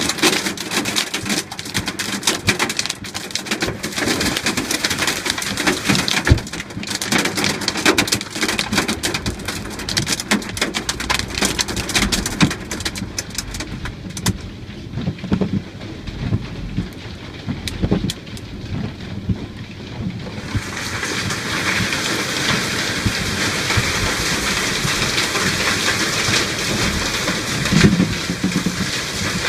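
Hailstones pelting down in a hailstorm: a dense patter of sharp impacts that thins out about halfway through, then gives way near the two-thirds mark to the steady hiss of heavy rain.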